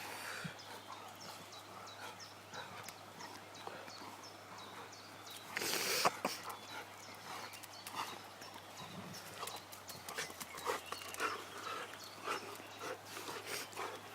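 Two dogs tussling over a stick, making short dog noises amid scuffling and clicking sounds, with a louder burst of noise about six seconds in.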